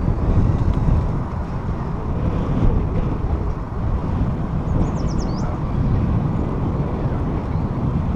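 Wind rushing over the microphone of a camera on a moving bicycle, a steady low rumble with riding noise. A brief high chirping sounds about five seconds in.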